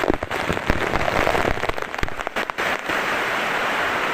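Steady rush of falling water, broken over the first three seconds by a flurry of irregular pattering knocks and brief dropouts, like drops hitting close to the microphone.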